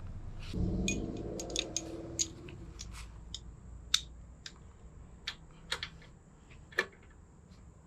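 Scattered sharp metal clicks of a spark plug socket and wrench being fitted and turned on a lawn mower's spark plug, loosening it, with a short rubbing sound near the start.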